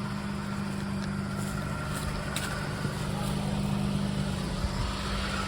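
A vehicle running steadily: a constant low hum with a faint even hiss over it.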